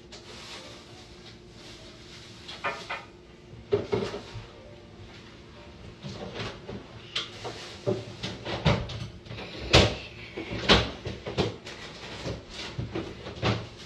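Irregular knocks, clicks and clatters of household handling, like doors and objects being moved. They start sparse and grow busy about halfway through, over a faint steady hum.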